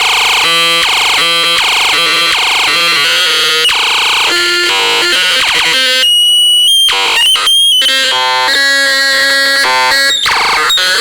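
Loud, harsh electronic tones: buzzy pitched sounds that switch pattern about every half second, broken around the middle by a few seconds of high, thin whistling tones with small glides before the buzzing resumes.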